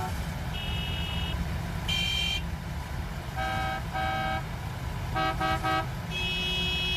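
Several car horns honking one after another at different pitches: single blasts, a quick triple toot, and a long final blast, over a steady low rumble.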